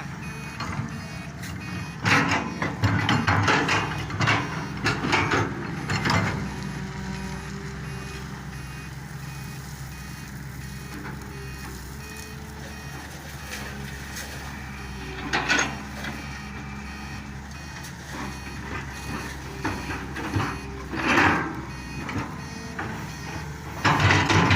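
Diesel engines of an excavator and trucks running steadily, with a reversing alarm beeping. Loud clattering bursts of rock come several times: at the start, about midway, and near the end. These fit rocks being dumped into a truck bed.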